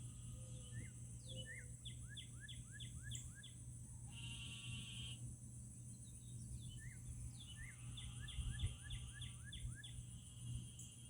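A songbird singing two phrases, each a quick series of about six repeated down-slurred whistled notes, with a short buzzy note between them. A steady high-pitched drone and a low hum run underneath.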